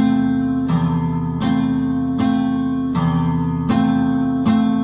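Acoustic guitar strummed on an F chord in a 3/4 waltz pattern: a low bass-string stroke followed by two strums of the upper strings ("쿵 짝 짝"). The strokes come evenly, about one every three quarters of a second.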